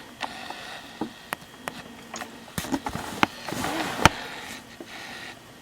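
Irregular clicks and knocks as the cool mist humidifier is handled and its mist output is turned up, with a short soft rush of noise a little past halfway.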